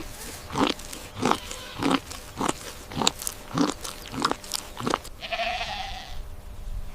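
A goat chewing, with a crisp crunch about twice a second, then a brief breathy sound about five seconds in.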